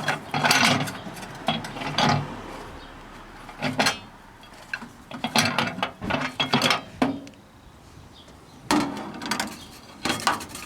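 Clicks, knocks and scraping clatter as the microwave's glass turntable plate, with the burnt remains of a fidget spinner glued to it, is handled and taken out. The sounds come in irregular clusters, with quieter stretches between them.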